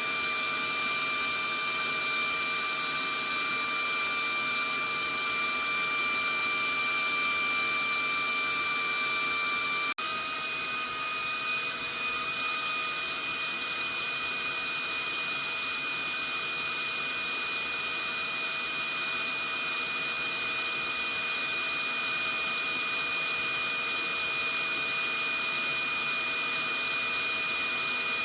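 Vacuum cleaner motor running steadily, a rushing air noise with a fixed high whine. About ten seconds in the sound cuts off for an instant and picks up again slightly louder, with the highest whine a little higher.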